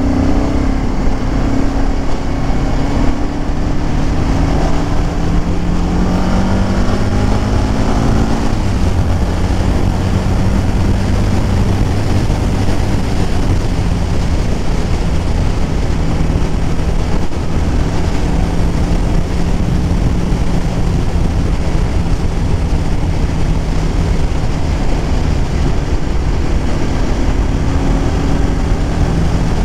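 BMW F650 GS single-cylinder, fuel-injected motorcycle engine running while riding. Its pitch climbs for the first eight seconds, drops at about eight and a half seconds, then holds steady at cruising speed, rising again slightly near the end.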